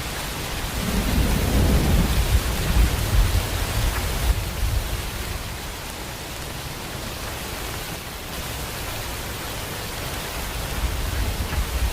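Steady heavy rain hissing, with a low rumble of thunder swelling in the first few seconds.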